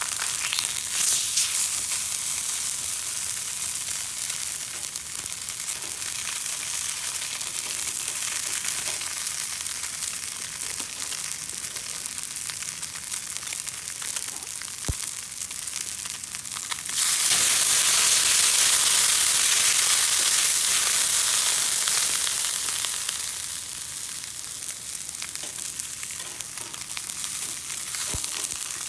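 Food sizzling in oil in a hot pan, a steady hiss that jumps suddenly louder about two-thirds of the way through and then slowly dies back down.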